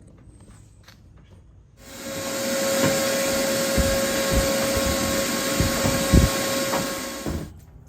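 Shop vac switched on about two seconds in, spinning up to a steady whine with a hum and running while it vacuums dust out of a pickup truck bed, then switched off near the end. A few low thuds sound partway through while it runs.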